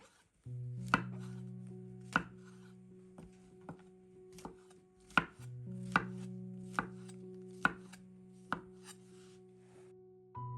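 Knife chopping on a cutting board: slow, separate chops about one a second, over soft background music with long held notes.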